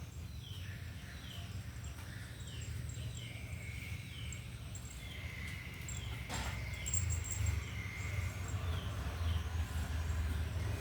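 Small animal chirps: short falling high chirps repeating about twice a second, with a steady high trill through the middle, over a low rumble.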